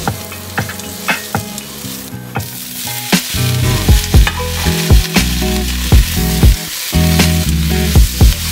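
Sliced red onion sizzling in hot oil in a nonstick wok while a spatula stirs it, with repeated sharp taps and scrapes of the spatula against the pan.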